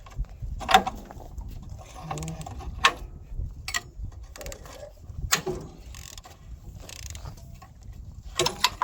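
Ratchet and wrenches working an engine-mount bolt: metal clinks and knocks, with a quick run of ratchet clicks near the end.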